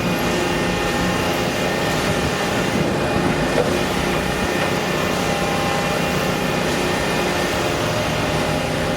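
An engine running steadily, a continuous drone of several held tones over a broad wash of mechanical noise.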